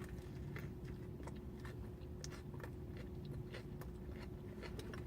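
A person chewing food close to the microphone, with irregular small wet mouth clicks, over a steady low hum.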